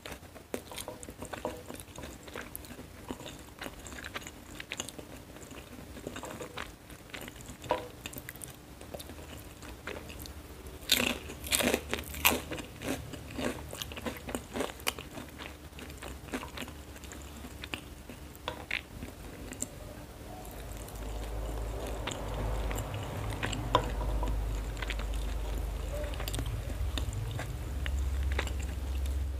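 Close-miked eating of fried noodles with a fork: chewing with many small clicks and crunches, loudest in a burst of crunching about eleven to twelve seconds in. A low rumble joins about two-thirds of the way through.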